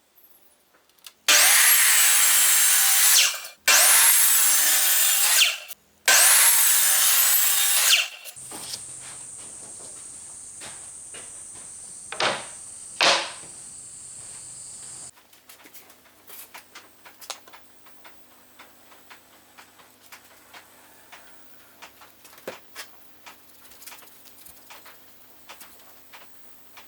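A power tool working wood, run in three loud bursts of about two seconds each, each rising and falling in pitch. Then a quieter steady machine hum with a high whine, and near the end light clicks and taps of handling.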